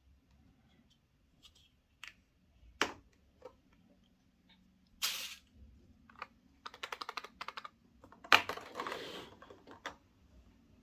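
Close handling of chocolate surprise eggs, their foil wrappers and plastic toy parts. Scattered sharp clicks, a short rustle about halfway, a quick run of small clicks, then a sharp snap followed by about a second of crinkling.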